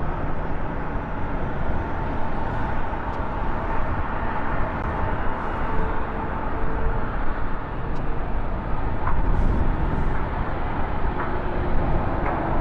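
Steady rushing noise of jet airliner engines, with a faint steady whine, mixed with wind buffeting the microphone.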